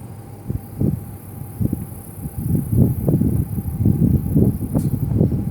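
Gusty wind buffeting the microphone: low rumbles that rise and fall irregularly, several gusts a second.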